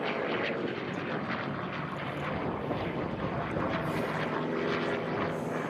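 Grumman F8F Bearcat's Pratt & Whitney R-2800 radial piston engine running steadily as the fighter flies a fast display pass, heard from the ground.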